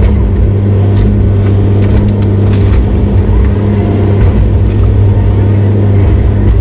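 Heavy equipment diesel engine running steadily with a deep, even hum, with a few light knocks and clanks over it.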